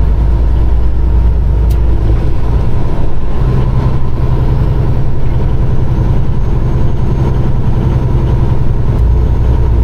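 Peterbilt 389 semi truck's diesel engine running steadily under way, heard from inside the cab. Its low note steps up about three and a half seconds in and settles back down near the end.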